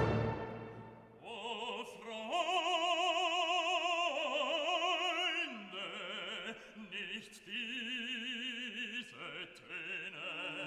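Operatic singing in long held notes with a wide vibrato, after a loud orchestral chord dies away in the first second.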